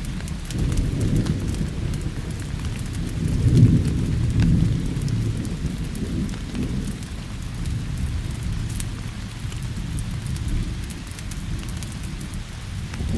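Steady rain with a low rolling thunder rumble that swells about a third of the way in and then eases off. Scattered sharp crackles of a wood fire run through it.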